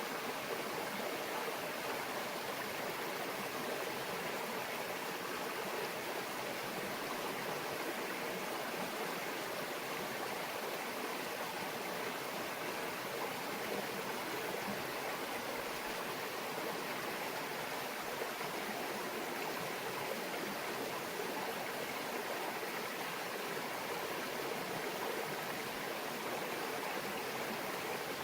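Small stream babbling steadily over rocks, a continuous even rush of water with no breaks.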